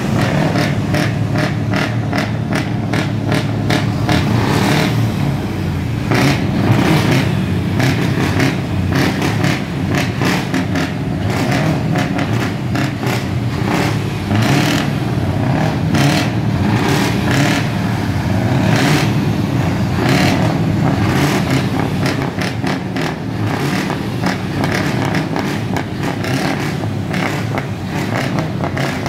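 Scania truck diesel engine running loud through an open exhaust, revved up and down repeatedly with a deep rumble and sharp exhaust pulses.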